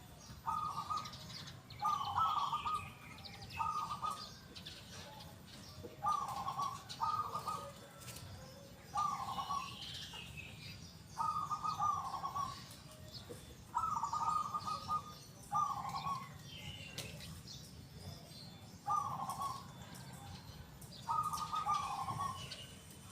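Zebra dove (perkutut) singing: short, trilled coos repeated every one to two seconds. Smaller birds chirp fainter and higher in the background.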